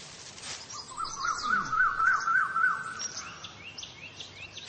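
Birds chirping and twittering, with one warbling call that rises and falls about four times a second for a couple of seconds in the first half.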